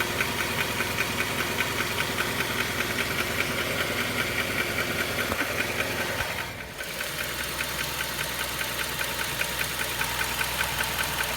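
Honda CR-V engine running with a steady, rapid ticking/clacking, about four ticks a second; the cause is unknown to the owner. The sound drops briefly about six and a half seconds in, then the ticking goes on as before.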